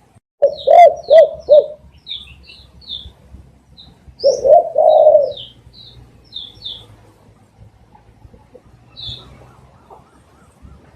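Spotted dove calling: a quick run of four short coos about half a second in, then one longer drawn-out coo around four seconds in. Short high chirps from small birds are scattered throughout.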